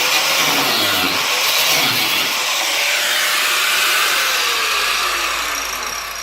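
Angle grinder with a cutting disc cutting through a steel strengthening plate. Its pitch wavers under load, then falls and the noise tails off near the end as the grinder spins down.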